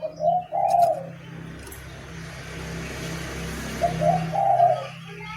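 Two low cooing bird calls, one near the start and one about four seconds in, with a rush of hiss between them over a steady low hum.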